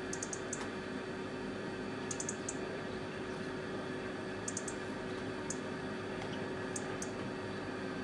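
A small songbird calling in high, thin notes, in quick runs of three or four and then single notes near the end, over a steady hiss and a low hum.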